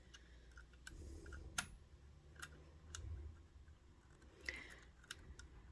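Scattered small metal clicks and taps as a tiny screw and screwdriver are handled against a sewing machine's zigzag mechanism, the sharpest click about a second and a half in.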